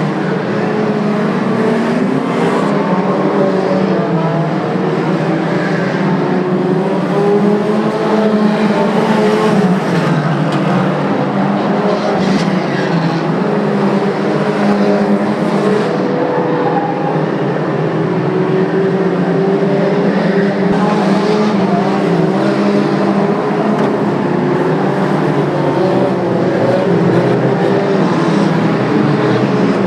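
Engines of several banger or stock racing cars running hard together during a race, their pitches rising and falling as they lap.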